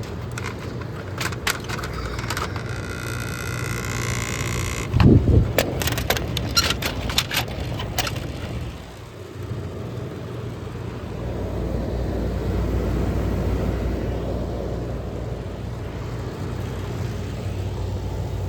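Vintage room air conditioner being switched on and started: a run of clicks and knocks and a heavy thump, then from about ten seconds in its fan and compressor running with a steady low hum.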